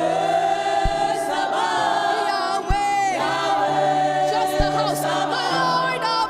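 Gospel worship singing: voices holding long, wavering notes over a sustained musical backing, with a few soft low thumps.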